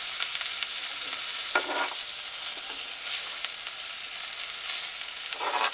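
Zucchini and mushrooms sizzling in a hot cast iron skillet on a wood stove, a steady hiss, with a few short knocks as a fork scrapes the chopped vegetables off a cutting board into the pan.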